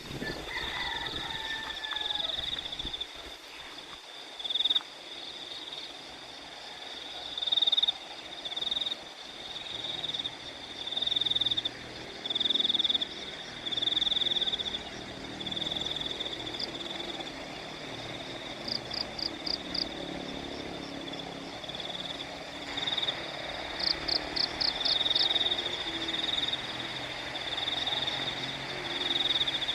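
A rice-paddy chorus of frogs and insects calling. A high, even-pitched call repeats about once a second throughout, with two short runs of rapid clicks about two-thirds of the way through and a brief falling call right at the start.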